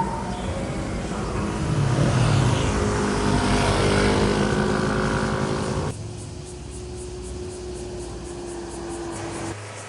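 Motorcycle engines passing by, revving with the pitch rising and falling, loud for the first six seconds. The sound then cuts abruptly to a quieter, steadier engine sound, and changes suddenly again near the end.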